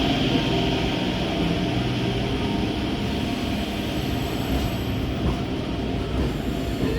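A train running along the track with a steady rumble, easing off slightly in loudness.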